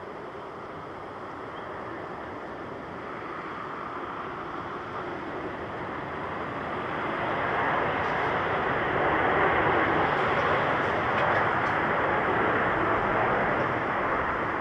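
All Nippon Airways jet airliner flying a landing approach to Runway B, its engine noise a steady rush that grows louder over the first eight seconds or so and stays at its loudest as the plane passes close.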